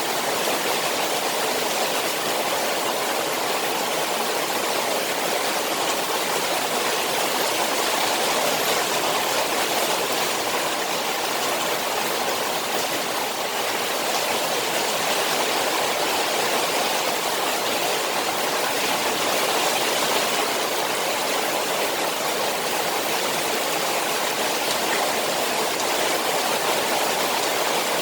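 Rain falling on a koi pond, a steady, unbroken rush of water.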